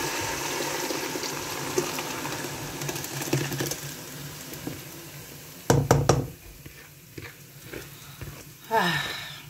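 Grated tomato purée poured into hot oil and onions in a metal pot, sizzling and fading over several seconds as it cools the oil. A few sharp knocks on the pot about six seconds in.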